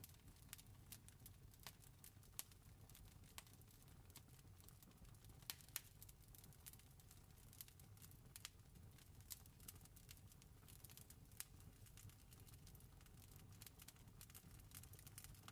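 Campfire burning: wood crackling with irregular sharp pops, a few louder ones midway, over a soft low rumble of the flames.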